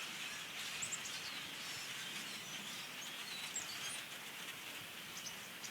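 Large flock of birds calling: scattered short high chirps over a steady hiss of many distant calls blending together.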